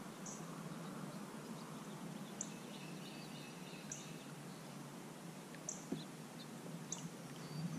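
A bird calling with short, high chirps repeated every second or two over steady faint background noise.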